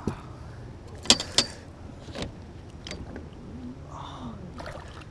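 A few sharp knocks and clicks of handling in a boat while a fish is landed, the loudest two close together about a second in, over a low steady hum.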